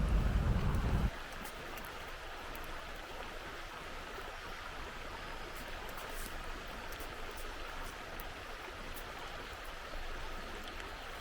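Steady water noise, an even hiss without rhythm, with a loud low rumble that cuts off suddenly about a second in.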